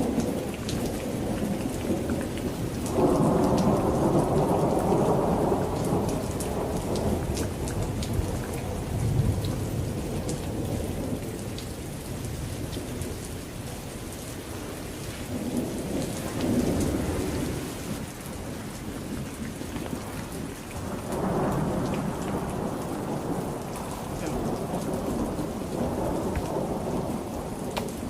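Heavy rain falling steadily, with rolling thunder: a long rumble about three seconds in, another near the middle, and a third building from about twenty-one seconds.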